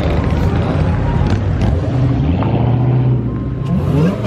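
Car engines running loudly, with one revving up and rising in pitch near the end.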